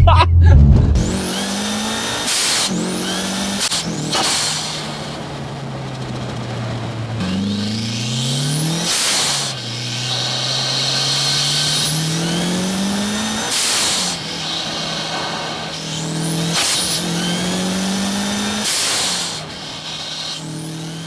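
Mitsubishi Lancer Evolution VII's turbocharged 2-litre four-cylinder accelerating hard through several gears. The engine note climbs with each pull and drops at each gear change, a turbo whistle rises along with it, and a short rush of turbo flutter comes at each shift.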